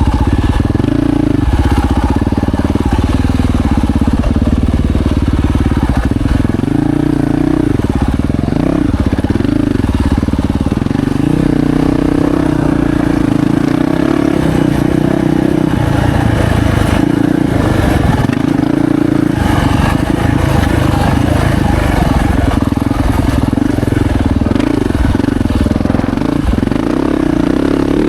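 2025 Yamaha YZ450F's four-stroke single-cylinder engine under way on a motocross track, its pitch repeatedly rising and falling as the throttle is opened and closed.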